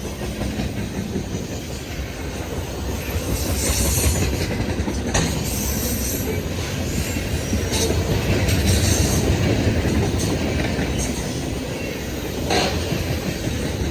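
CSX mixed freight train rolling past, a steady rumble of steel wheels on the rails with a sharp clank every few seconds.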